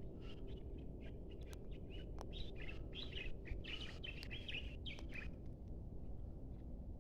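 A small bird chirping, a quick run of short high notes that thickens in the middle and stops about two-thirds of the way through, over a steady low rumble.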